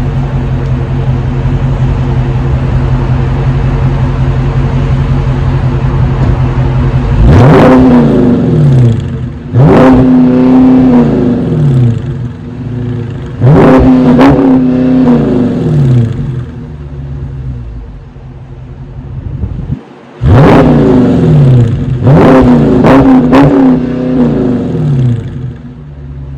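2022 Dodge Charger Scat Pack's 392 Hemi 6.4-litre V8 idling steadily, then revved hard about six times, each rev climbing quickly and falling back to idle. Three blips come in the first half and three in quick succession near the end.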